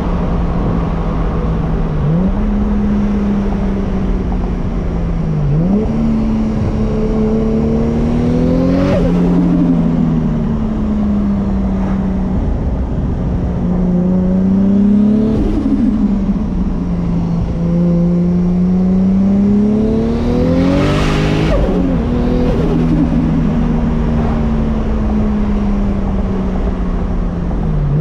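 MK4 Toyota Supra's turbocharged inline-six driven hard: the revs climb in three pulls and fall away between them. A short burst of hiss comes at the top of each pull as the throttle closes.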